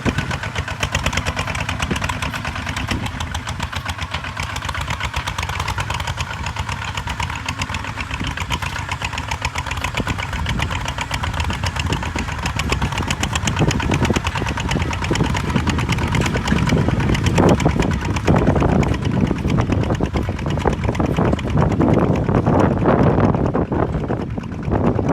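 Kubota ZT155 single-cylinder diesel engine running with a fast, even chugging beat, growing louder from about halfway through.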